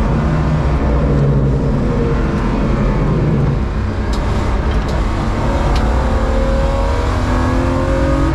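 BMW E36 325i's 2.5-litre straight-six engine pulling hard on track, heard from inside the caged cabin, its pitch rising under acceleration. About four seconds in it eases off briefly with a few light clicks, then pulls again with rising pitch.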